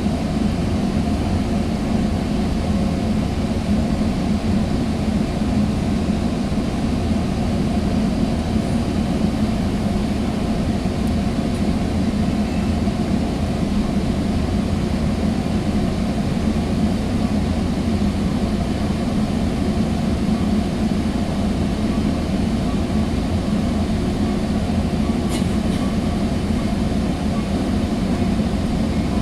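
Sounder commuter train heard from inside a passenger coach while running, a steady low rumble of wheels on the rails.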